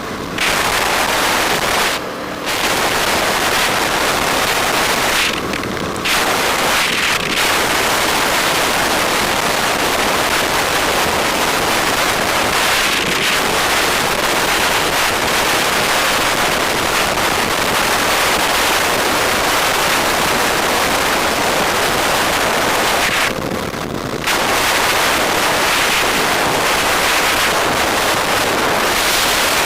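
Loud, steady wind rush over the microphone of a camera riding on a moving bike. The hiss drops back briefly a few times, near 2, 6, 7 and 24 seconds in.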